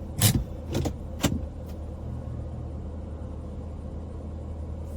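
Four sharp clicks or knocks in quick succession in the first two seconds, then a steady low hum of the car idling, heard from inside the cabin.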